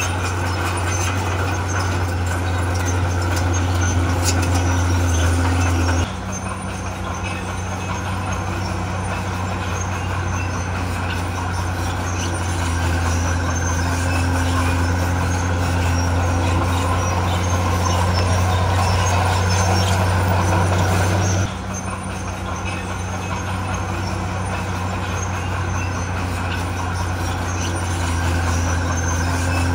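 Heavy diesel engine of earthmoving machinery running steadily with a deep drone, dropping abruptly in level about six seconds in and coming back up just after twenty seconds.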